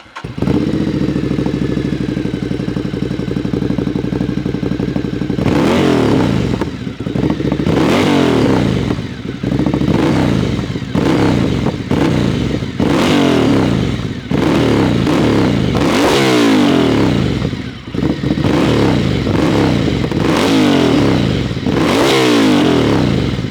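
Ducati Scrambler Icon's air-cooled 803 cc L-twin, breathing through an Akrapovič full-system exhaust with no dB killer fitted, starts and settles into a steady idle. From about five seconds in it is blipped again and again, revs rising sharply and falling back every second or two, up to about 8000 rpm and short of the red line. It is very loud.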